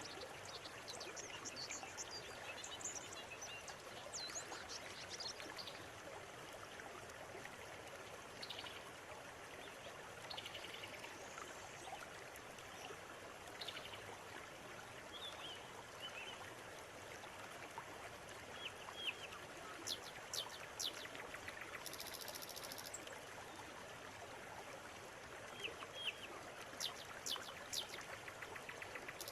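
Shallow river water running steadily, with birds chirping and whistling over it in short calls, including a run of sharp, clicking chirps in the second half.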